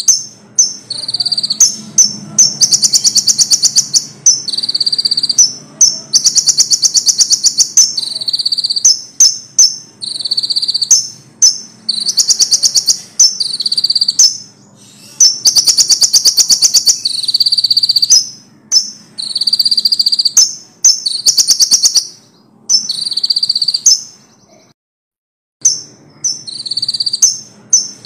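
Konin songbird singing loudly in long repeated phrases of high, very fast trills broken by short sharp chirps, with a brief silent gap near the end.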